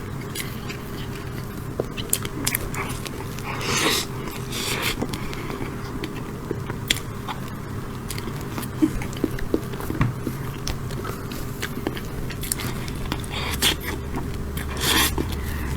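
Close-miked eating: biting and chewing a chocolate tiramisu, with many small sharp clicks and a few short, louder noisy bursts over a steady low hum.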